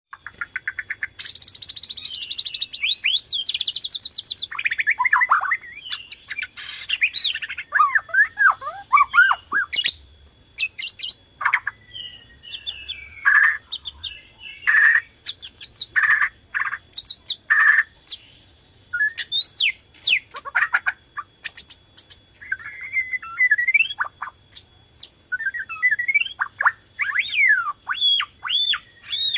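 Borneo white-rumped shama (murai batu) singing a long, varied song of gliding whistles and fast trills, broken in the middle by a run of harsh clicking rattles.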